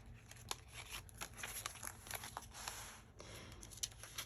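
Paper rustling and crinkling with scattered light clicks and taps as the pages, pockets and tucked papers of a junk journal are handled.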